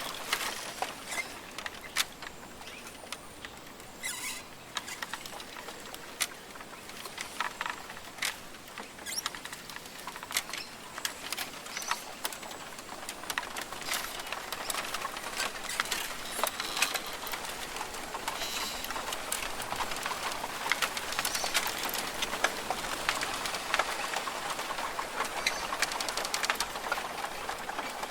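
Rainforest ambience: irregular ticks and patter with a few faint bird calls over a high hiss that grows denser about halfway through.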